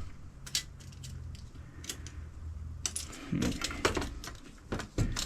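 Scattered light metallic clicks, clinks and taps of a metal rod and hand tools being handled on a workbench, coming more often in the second half.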